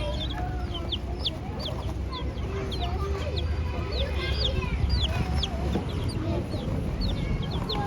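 Chicks peeping: many short, high, falling peeps, a few every second, over lower wavering calls and a steady low rumble.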